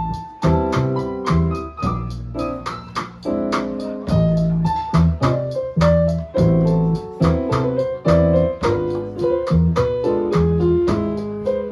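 Jazz band playing instrumentally, with a keyboard, electric piano-like, to the fore over a double bass line and drums keeping a steady beat on the cymbals.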